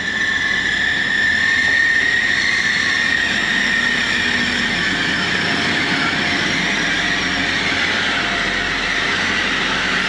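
First Hull Trains diesel multiple unit passing close by, a loud steady rumble of engines and wheels with a high whine that sinks slightly in pitch and fades about halfway through.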